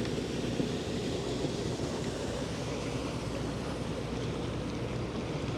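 Steady wash of water and wind noise on the microphone as a fishing kayak moves across the water.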